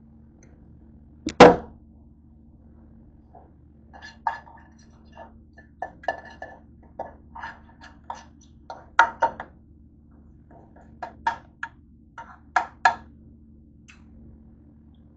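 A thump about a second in, then a person eating a grilled bean burrito: a run of short, wet chewing and lip-smacking sounds close to the microphone.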